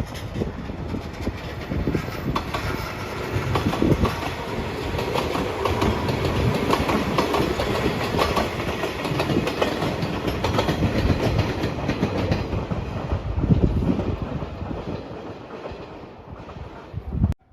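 A train passing, its wheels clacking over the rail joints; the sound builds over the first few seconds, fades near the end and then cuts off suddenly.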